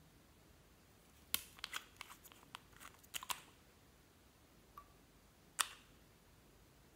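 Clear slime being handled, giving a quick run of small sharp clicks and crackles for about two seconds, then a faint click and one louder single click.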